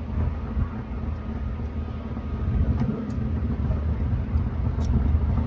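Low, rumbling sound of vehicle engines running, growing louder about halfway through, with a couple of faint clicks.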